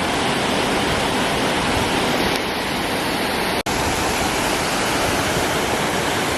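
Waterfall rushing in a loud, steady roar, cut off for a split second about three and a half seconds in.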